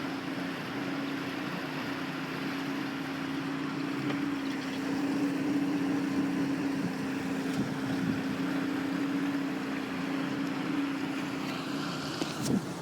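A motor running steadily at an even pitch, with wind on the microphone, and a short sharp click near the end.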